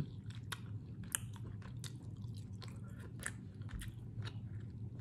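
Close-miked mouth sounds of a person chewing food: soft, wet clicks and smacks at irregular intervals.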